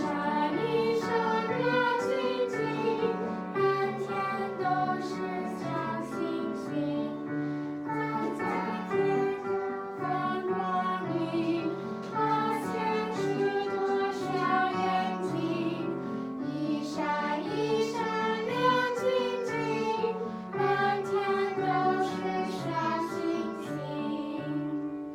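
A small class of students performing a simple tune together: a steady run of held notes with no talking.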